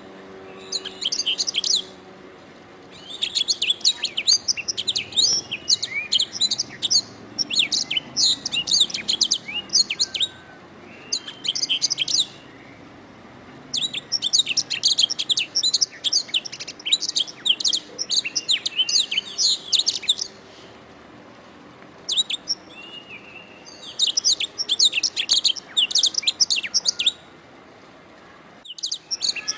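Domestic canary singing: phrases of rapid, high chirps and trills a second to a few seconds long, broken by short pauses.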